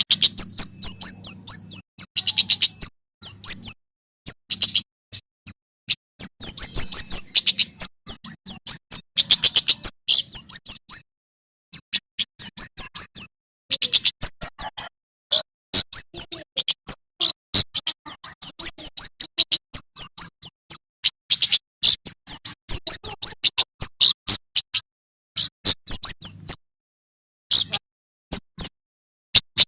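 A male prenjak keres (kemade), a tailorbird, singing hard: rapid runs of sharp, high chirping notes in bursts of a second or two, broken by short pauses.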